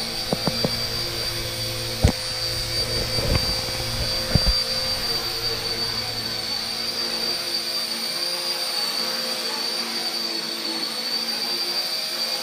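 Small electric RC helicopter, an RC Era C032 UH-1 Huey, hovering: a steady high-pitched whine from its motors and rotors. A few sharp clicks in the first few seconds.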